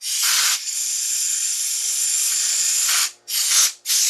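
Pressurised spray hissing: one long blast of about three seconds with a short break near the start, then two short blasts.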